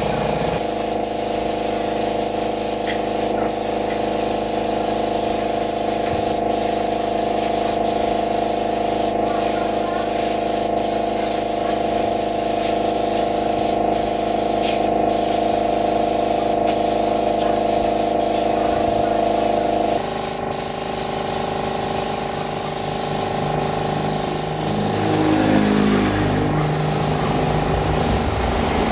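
Steady hiss of spraying air over a steady mechanical hum whose pitch changes about twenty seconds in.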